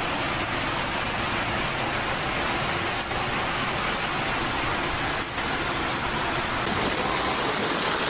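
A loud, steady rush of water in torrential flooding, with abrupt shifts in the sound a few times, as if clips were cut together.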